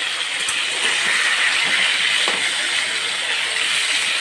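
Potatoes frying in hot oil in a pan, a steady sizzling hiss.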